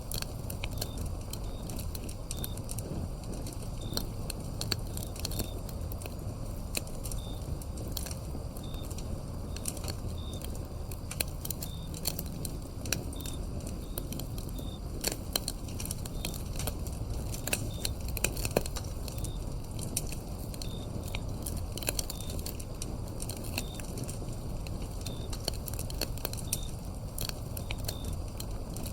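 Firewood burning with steady crackling and sharp pops over a low rumble of flame. A cricket-like insect chirps at an even pace above it.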